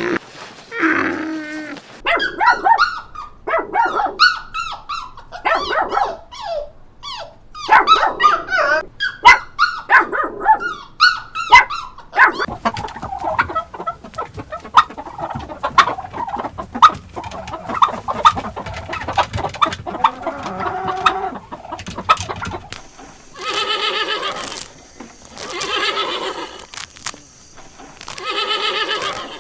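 A run of different animal calls, one after another: quick cries bending up and down for the first ten seconds or so, a busier jumble in the middle, and long drawn-out calls about every two seconds near the end.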